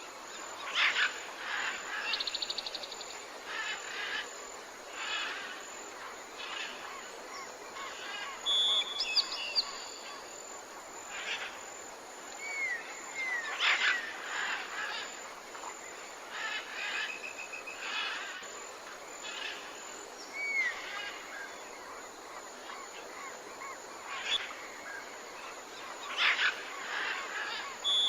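Several wild birds calling and singing in a morning chorus: short chirps, a rapid trill, held whistled notes and quick slurred calls, over a steady background hiss.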